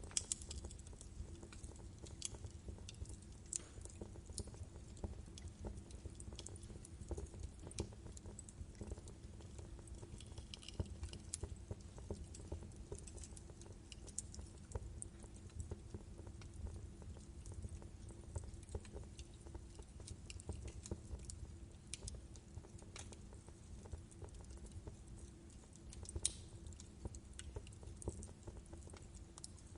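Wood fire crackling in a fireplace: irregular sharp pops and snaps over a steady low rumble, with a couple of louder pops near the start and about 26 seconds in.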